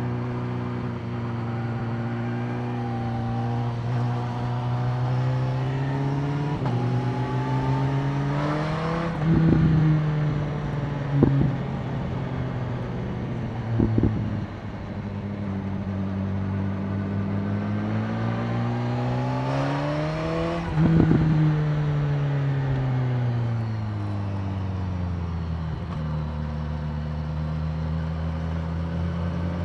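BMW S1000R's inline-four engine running under way, climbing in pitch twice as the bike accelerates, then easing off and dropping in pitch. A few short, sharp, louder blasts stand out in the middle.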